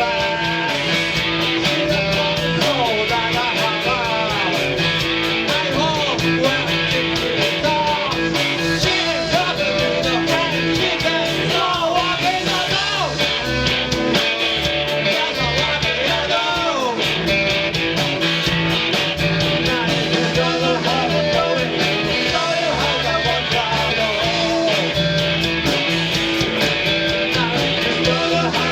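Rock band playing live: electric guitar with bending notes over bass and steady drums and cymbals.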